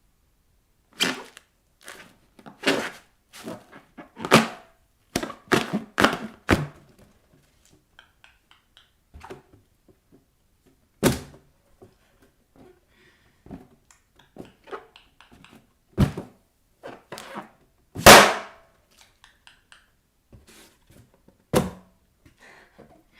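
Bare feet stomping and tapping on inflated balloons. A quick run of thumps comes in the first six seconds or so, then single hits spaced several seconds apart. One much louder sharp bang comes about eighteen seconds in.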